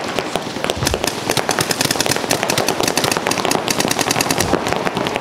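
Paintball markers firing rapid streams of shots, many pops a second without a break.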